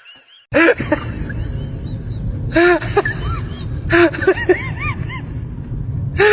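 A cat meowing repeatedly in short rising-and-falling calls over a steady low rumble, starting about half a second in.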